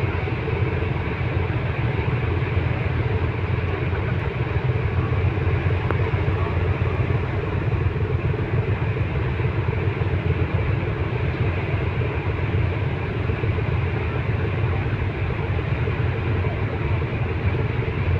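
Steady low rumble of a ferry's engines heard on board, even and unchanging.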